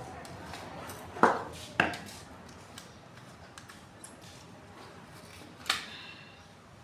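Three sharp knocks and clinks of hard, likely metal, parts or tools being handled, two close together about a second in and one near the end with a brief ring.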